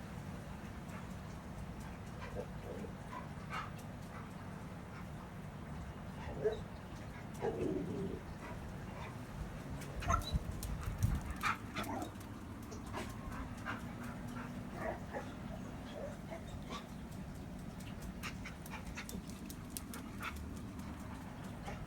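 Dog whimpering in short, scattered, coo-like whines, in reaction to noises from the neighbours. The whines are bunched in the middle, with a few low knocks among them, over a steady low hum.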